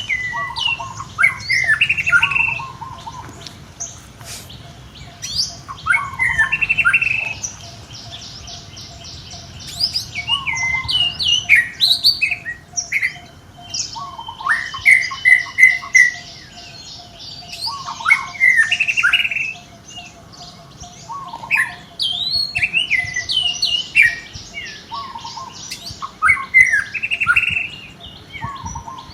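Bird song outdoors: a chirping, gliding phrase repeated about every four seconds, with other bird calls between and a faint fast ticking tone underneath.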